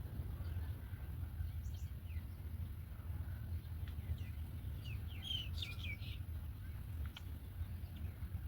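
Bird chirping: a few short, high chirps, then a quick cluster of louder ones about five seconds in, over a steady low background rumble.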